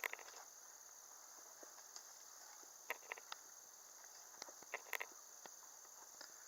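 Crickets trilling steadily at a high pitch, with a scattered few light clicks and taps from the hive being worked.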